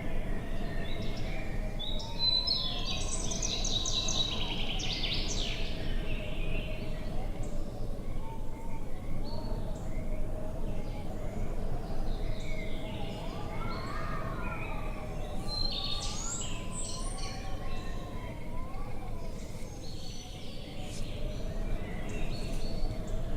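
Outdoor nature ambience of steady wind rumble with a continuous wavering whistle. Birds chirp in two bursts, near the start and again a little past the middle.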